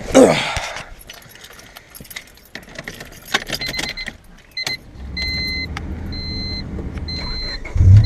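Keys jangle and a car's electronic chime beeps repeatedly. About five seconds in, a low rumble begins, and near the end the 1997 Honda Civic's D16Y8 four-cylinder engine catches and starts running. It is the first start after new spark plug wires were fitted to cure a misfire.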